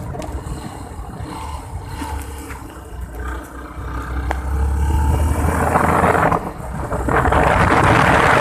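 Motorcycle engine running during a ride, with wind rushing over the microphone. The low engine rumble strengthens about four seconds in, and the wind noise grows loud in the second half.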